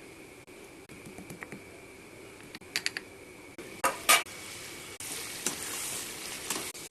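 Metal utensils clinking and knocking against a cooking pot, with two louder knocks about four seconds in. A steady hiss of food sizzling in hot oil follows for the last two seconds.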